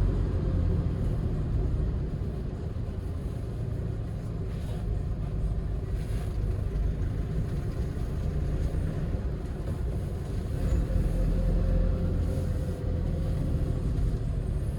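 Hyundai Porter II truck driving: steady low engine and road rumble with no gear changes or other events standing out.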